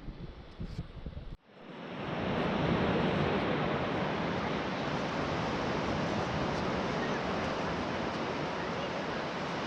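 Wind buffeting the microphone for about the first second and a half, then a sudden cut to a steady rush of ocean surf breaking on the shore.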